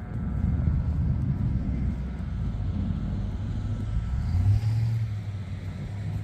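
Truck engine running with a low, steady rumble that swells briefly about four and a half seconds in.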